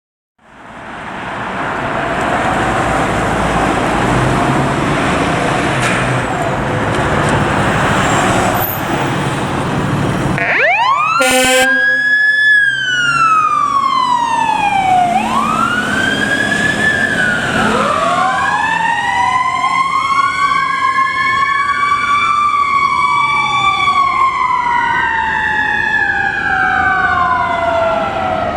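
Fire truck sirens on a responding ladder truck. About ten seconds of loud rushing, rumbling vehicle noise give way to a brief horn note, then an electronic wail siren that sweeps up and down repeatedly. A second wailing siren joins a few seconds later, the two sweeping out of step.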